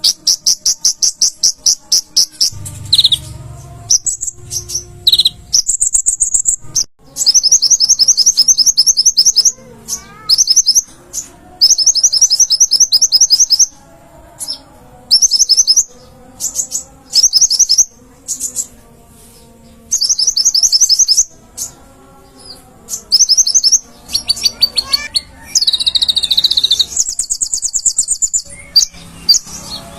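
Olive-backed sunbird (kolibri ninja) in full song: loud, very rapid high-pitched trills in bursts of one to two seconds, repeated with short pauses.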